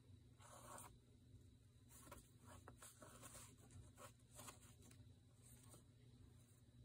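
Near silence with faint, scattered scraping and rustling of paper being handled and worked.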